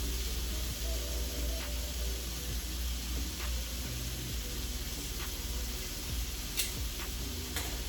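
Food sizzling steadily on a hot griddle over a low hum, with a couple of faint clicks near the end.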